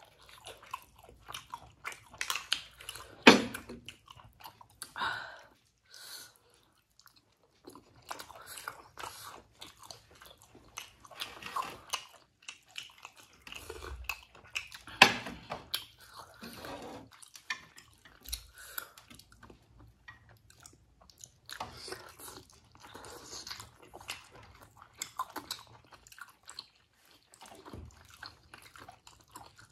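Mouth sounds of people eating steamed chicken and pork momos: chewing and biting, with many short irregular smacks and clicks. Two sharper clicks stand out, about three seconds in and about fifteen seconds in.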